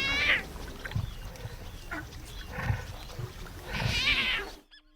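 Young lion cubs mewing: three high-pitched calls, the loudest at the start and near the end, over a low natural background. The sound cuts off suddenly near the end.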